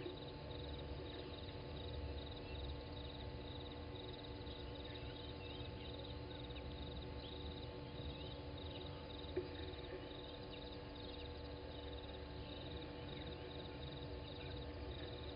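Early-morning bush ambience at a waterhole: insects chirp in steady repeated trills, with scattered short bird calls and a steady low hum. A single brief click comes a little over nine seconds in.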